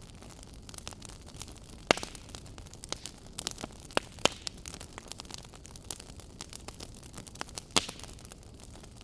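Wood fire crackling: irregular sharp pops and snaps over a steady hiss, with two louder pops about two seconds in and near the end.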